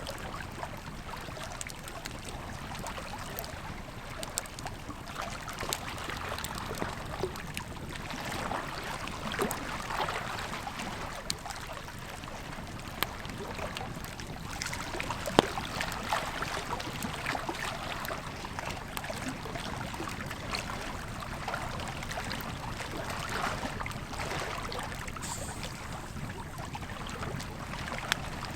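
Wood campfire crackling and popping, with scattered sharp snaps and one louder pop about halfway through, over the steady rush of a flowing river.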